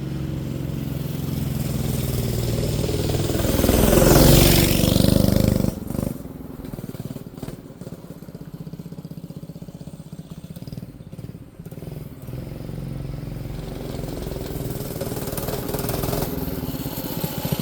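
Small single-cylinder engine of a Manco Streaker mini bike running as the bike is ridden past. It grows loud to a peak about four to five seconds in, falls away, then gets louder again toward the end as it comes back.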